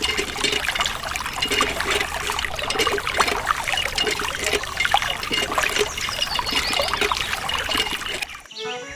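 A small stream of water trickling and splattering steadily. Background music with a steady beat comes in just before the end.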